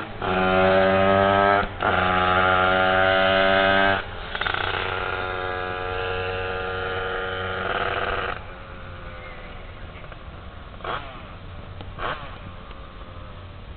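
Derbi two-stroke engine in a pit bike revving hard and holding high revs, with two brief dips early on, easing at about four seconds and dropping to idle about eight seconds in. Two short throttle blips follow near the end.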